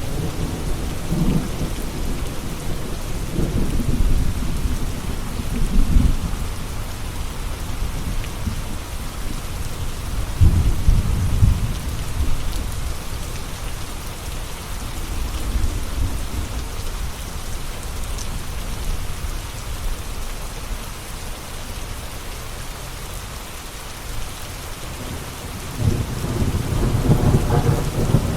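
Steady rain hissing down, with low rolling thunder rumbling through it. The thunder swells in the first few seconds, again about ten seconds in, and builds once more near the end.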